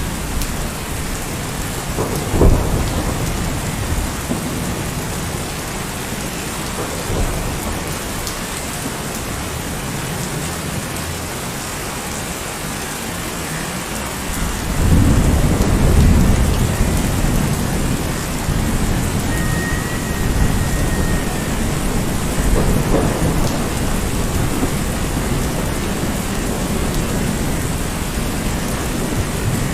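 Steady rain falling, with thunder: a sharp crack a couple of seconds in, then a long, low rumble that begins about halfway through and slowly fades.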